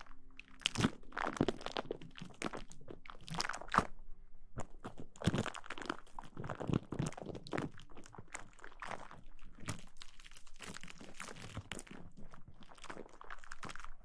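Close-miked ASMR rustling and scratching: dense, irregular crackling strokes in quick succession, with a couple of brief lulls.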